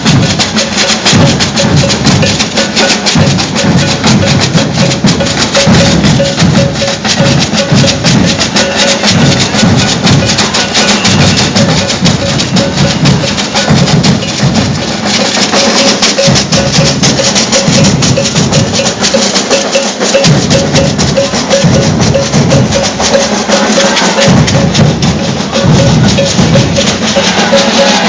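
Maracatu de baque virado percussion group playing: deep alfaia drum beats under a fast, dense rattle of snare drums and shakers, with a repeated ringing note from a bell.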